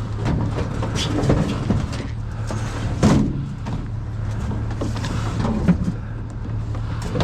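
A vehicle engine idling steadily, with intermittent knocks and clatters, the sharpest about three seconds in.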